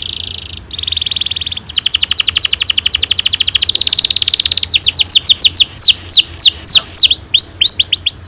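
Domestic canary singing a long rolling song: a buzzy roll, then a fast even trill of rapid notes, breaking about two-thirds through into slower repeated falling whistles.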